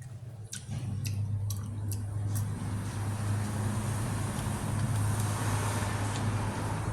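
A road vehicle going past, its noise swelling from about a second in and easing slightly near the end, over a steady low hum, with a few light clicks in the first couple of seconds.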